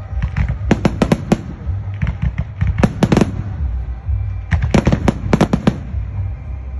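Fireworks going off: quick volleys of sharp cracks in three clusters, about a second in, near three seconds and around five seconds, over a low rumble.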